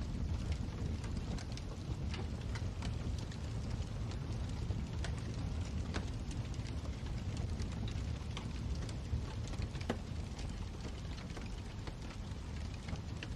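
Wood fire burning in a fireplace: a steady low rumble of flames with frequent, irregular crackles and pops, a few of them sharper than the rest.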